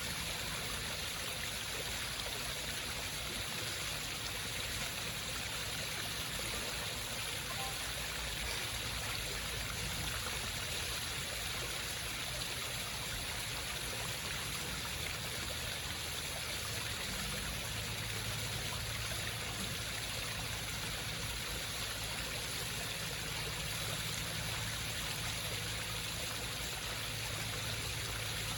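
Home waterfall: water running and trickling steadily down rocks.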